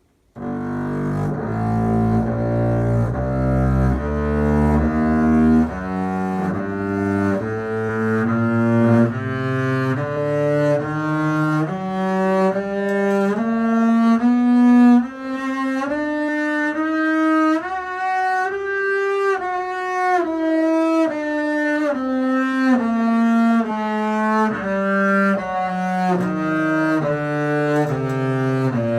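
Double bass bowed through a G harmonic minor scale, one sustained note at a time, climbing steadily to its top note about two thirds of the way in and then descending.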